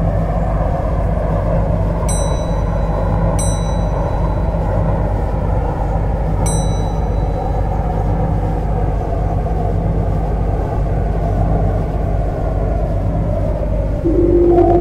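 Metro train running, heard from the driving cab: a steady low hum and rail noise under a traction-motor whine that slowly falls in pitch as the train slows. Three short high pings sound early on, and a steady tone sets in near the end.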